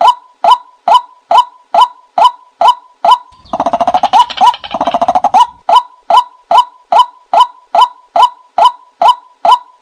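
Watercock calling: a steady series of hollow, hooked notes a little over two a second, broken about three and a half seconds in by a quicker run of deeper, gulping notes lasting about two seconds, after which the steady series resumes.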